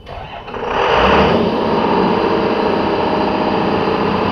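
Clarke diesel fire-pump engine cranked on starter 1, catching within about a second and then running steadily.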